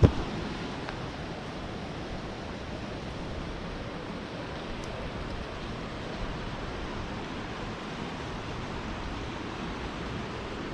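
Steady rushing of a turbulent mountain river and its waterfalls, an even noise with no break. A single short knock sounds right at the start.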